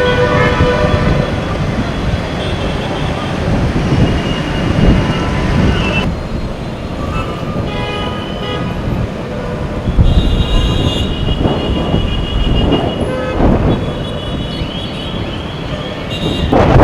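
Low rumble of strong wind and road traffic, with vehicle horns sounding on and off.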